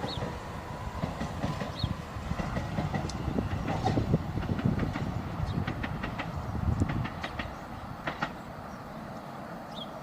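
Class 375 Electrostar electric multiple unit pulling away, with its wheels clicking over the rail joints. The running sound drops away about three-quarters of the way through.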